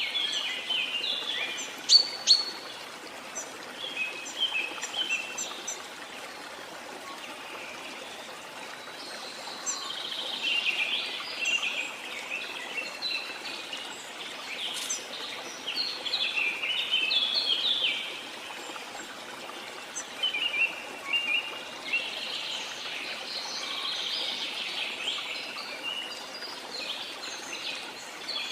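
Rainforest ambience: a steady rush of falling rain with many birds chirping and calling over it in bursts, busiest in the first few seconds, in the middle and again near the end.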